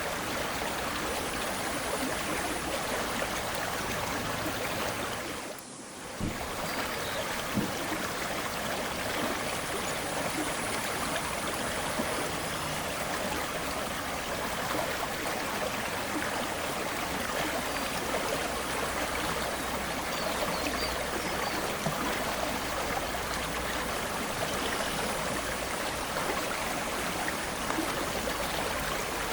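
Aare river water flowing and rushing steadily, with a brief drop in level about six seconds in.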